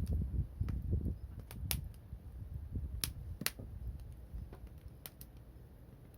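Wood fire crackling, with a few sharp pops from the burning wood spread through the stretch and a low rumble that eases after the first couple of seconds.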